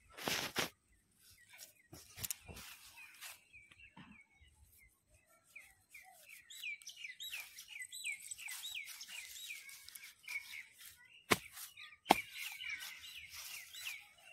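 Footsteps crackling over dry straw stubble, then a bird calling a long series of short falling chirps, about three a second, from about six seconds in. Two sharp clicks stand out near the end.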